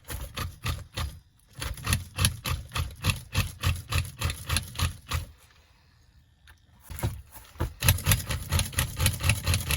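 HPI WR8 3.0 nitro RC car engine being primed: rapid, evenly spaced mechanical strokes, about four or five a second, in two runs with a pause of about a second and a half between them.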